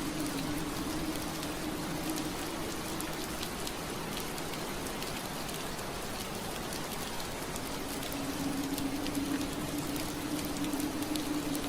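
Steady rain on window glass: an even hiss with light ticks of drops striking. A low steady hum runs under it, fading out a few seconds in and returning near the end.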